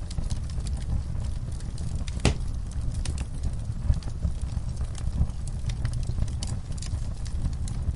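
Wood fire burning in a fireplace, with a low steady rumble and irregular crackling from the burning logs, and one sharper pop about two seconds in.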